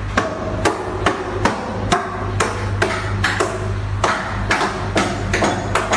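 Rhythmic sharp knocks, about two a second, over a steady low hum.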